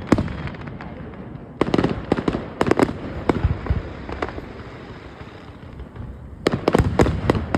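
Aerial fireworks bursting in rapid volleys of sharp bangs and cracks, with a low rumble between them. There is a burst right at the start, a dense volley about one and a half to three seconds in, a lone bang around four seconds, and another volley near the end.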